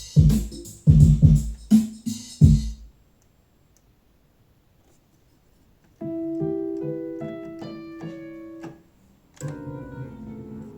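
Korg Karma synthesizer played through an Eventide H3000 effects processor: a dense rhythmic pattern that stops abruptly, about three seconds of silence, then single sustained electric-piano-like notes in a slow melody.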